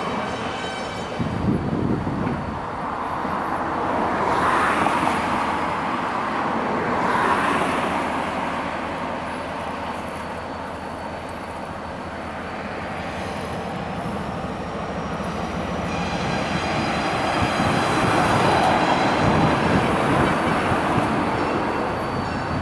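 Freight train moving past: a steady rumble and rattle of train wheels on rail, swelling louder several times as it goes by.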